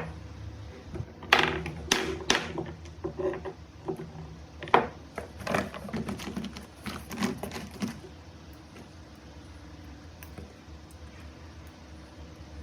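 An irregular series of sharp clicks and knocks, like small hard objects being handled, over about six seconds, stopping about two-thirds of the way through.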